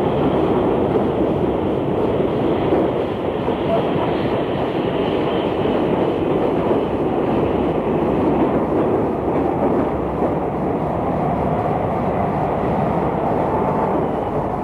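Train running past, a steady noise of wheels on the rails.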